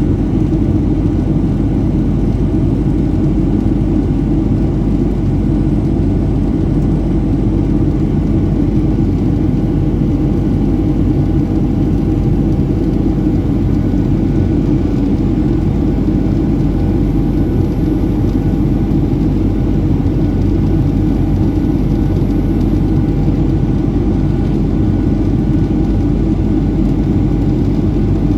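Steady cabin noise inside a Boeing 737-700 in flight: a loud, even rumble of airflow and the CFM56 jet engines, with a few faint steady hums over it.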